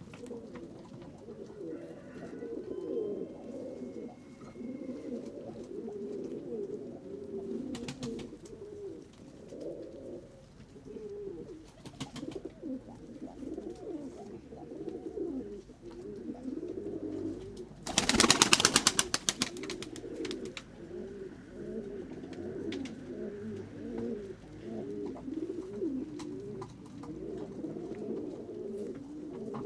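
Pigeons cooing continuously, overlapping low, wavering calls from several birds. About two-thirds of the way through, a loud rapid flurry of wing claps from a pigeon's wingbeats lasts a couple of seconds.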